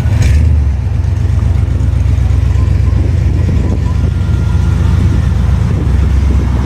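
A car engine running at idle with a loud, low exhaust rumble. A brief high-pitched sound cuts in just after the start.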